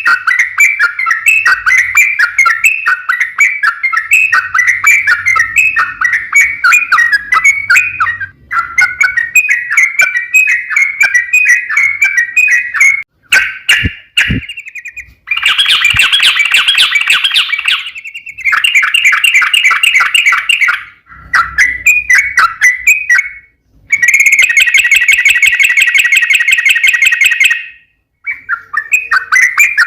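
Yellow-vented bulbul singing a long, rapid run of bubbly, chattering notes, loud and close. The song is broken by several brief silences, the longest a little past halfway and again near the end.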